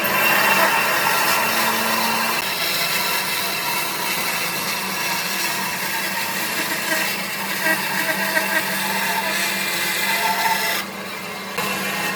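An electric woodworking power tool running steadily with a continuous motor hum. Its sound dips briefly about eleven seconds in, then carries on.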